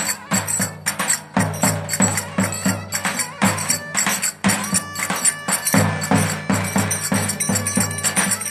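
Turkish köçek dance music: a fast, even rhythm of clattering, jingling percussion over a steady low drone, with a held melody line coming in about halfway.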